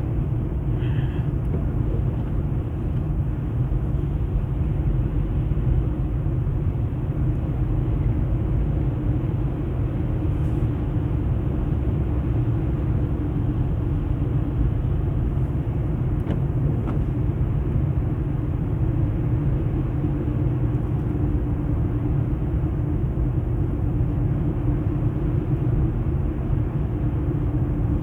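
Car cabin noise: a steady low rumble from the car's engine and drivetrain, unchanging throughout.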